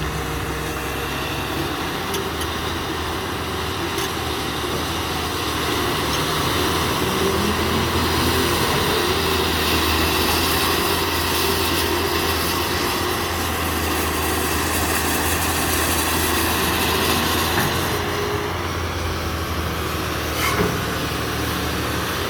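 Cat 330B hydraulic excavator's diesel engine running under test, growing louder with a rising whine and more hiss for several seconds in the middle before settling back. A single sharp knock comes near the end.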